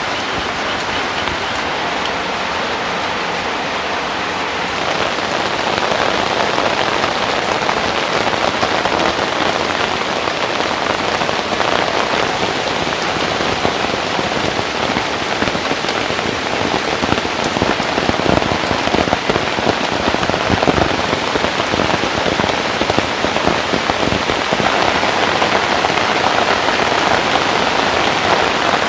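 Steady rain falling on surfaces, a dense spread of individual drops, growing a little heavier about five seconds in.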